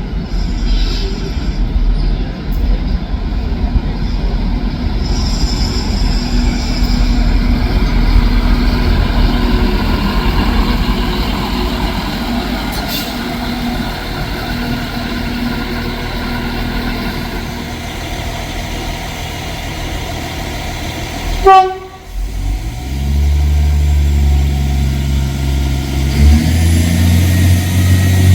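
Train rumbling at the station, then a brief loud falling tone. After that a diesel train's engine starts to pull, its note stepping up in pitch and loudness as it accelerates away.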